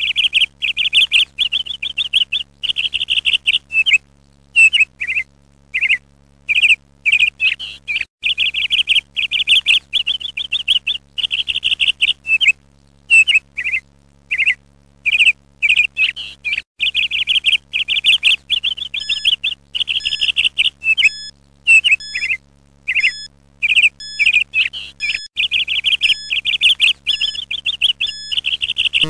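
Songbird song: quick, bright chirps and trills in short phrases with brief gaps between them.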